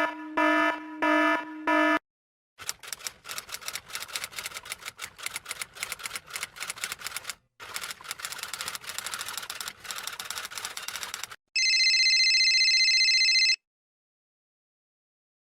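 Typewriter keys clacking rapidly and unevenly for about nine seconds, after four short pitched notes at the start. Near the end, an electronic telephone ring sounds once for about two seconds.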